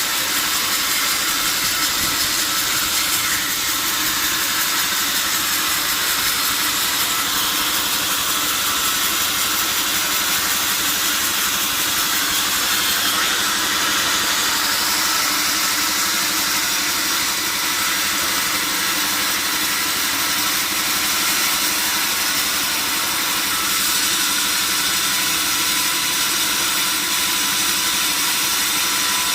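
Sawmill saw machinery running steadily with a continuous high, hissing whine, no breaks or changes in level.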